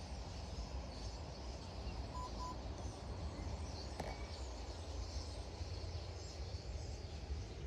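Outdoor ambience: a steady low rumble with faint, high bird chirps scattered through it, and a single sharp click about four seconds in.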